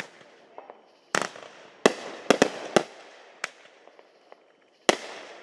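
Fireworks exploding overhead: a string of sharp bangs, several close together in the middle and one big one near the end, each trailing off in a fading rumble and crackle.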